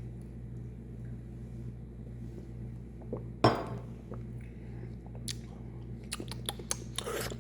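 A plastic Powerade bottle being handled over a steady low hum: one sharp knock a little over three seconds in, then a run of quick plastic clicks and crackles near the end.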